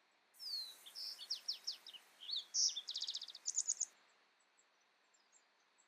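A songbird sings one varied song phrase of quick sweeping notes that ends in a fast trill, lasting about three and a half seconds; afterwards only faint, distant chirps are heard over a soft outdoor hiss.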